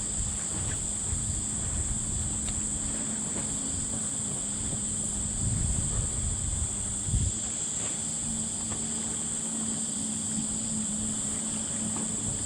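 Steady high-pitched insect drone over wind rumbling on the microphone, with a few faint clicks.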